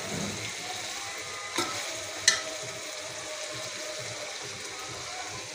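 Potato and aubergine curry, cooked dry without water, frying with a steady sizzle in an aluminium pot while a metal spatula stirs it. The spatula knocks sharply against the pot twice, about one and a half and two and a quarter seconds in.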